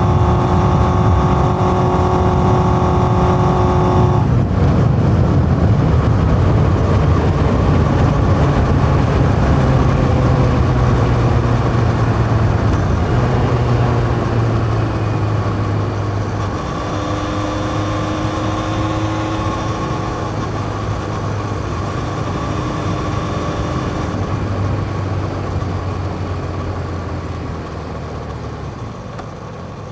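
A 1981 Yamaha XJ550's inline-four engine running through a 4-into-1 exhaust on a moving motorcycle. About four seconds in, the steady engine note breaks off as the throttle closes, then the pitch falls slowly and the sound gets quieter as the bike slows.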